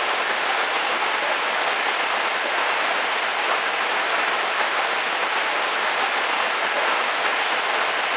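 Steady heavy rain drumming on a vehicle roof, a dense, even patter.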